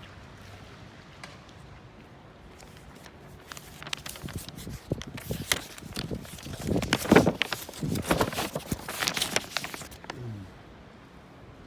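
Footsteps with a run of irregular clattering knocks and rattles, loudest in the second half, ending with a short falling squeak.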